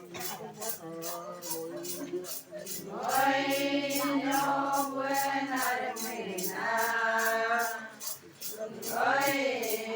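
Voices chanting or singing in long held notes, with a steady high ticking of about three beats a second running under them.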